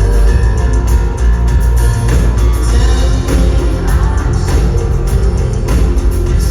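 Rock band playing live: heavy bass, drum kit and electric guitar, loud and continuous.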